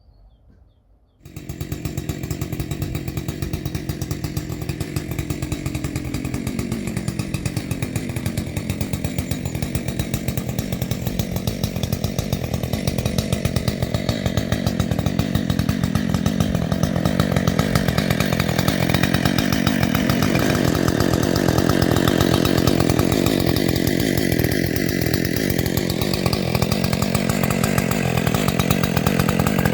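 Husqvarna 564XP 62 cc two-stroke chainsaw with a modified muffler, running under load at high revs with a 105 cm bar, typical of a long cut through a big beech log. It comes in suddenly about a second in and keeps running loud and steady, its pitch slowly sagging and recovering.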